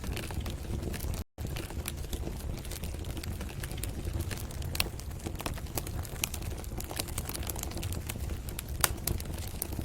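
Wood fire crackling in a fireplace: irregular sharp snaps and pops over a steady low rumble. The sound cuts out for an instant about a second in.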